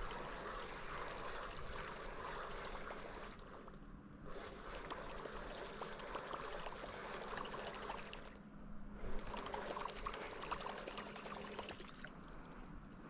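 Water trickling and splashing beside a paddled canoe. It comes in surges with short lulls about every four to five seconds, in the rhythm of paddle strokes.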